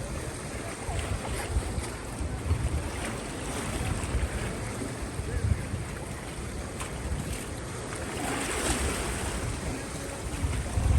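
Wind buffeting the microphone over the wash of sea waves, with gusty low rumbles.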